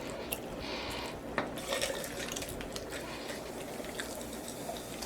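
Coke Zero soda being poured into a cup, followed by a steady fizzing hiss as it settles.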